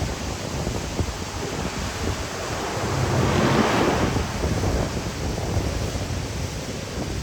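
Wind buffeting the microphone over rushing water on a moving boat, with a louder hissing swell of water about three and a half seconds in.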